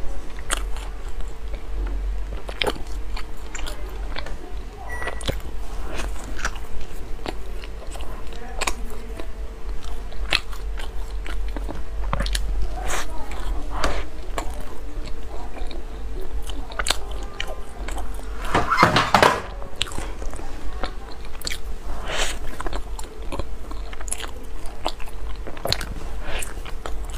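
Close-miked biting and chewing of a pastry-wrapped pork floss bread roll: irregular wet mouth clicks and soft crunches of the flaky crust, with one louder burst about two-thirds of the way through. A steady hum runs underneath.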